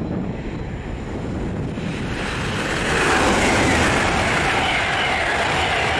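LNER Azuma high-speed train approaching and passing at speed: a broad rushing rail and wheel noise that swells about two seconds in and then holds steady, over a low rumble.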